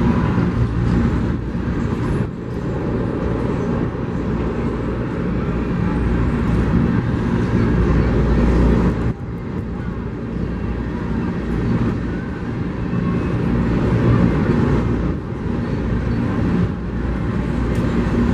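Freight train of open-top coal cars rolling past: a steady low rumble of steel wheels on the rails. The level rises and falls as the cars go by, with a sharp brief drop about 9 seconds in.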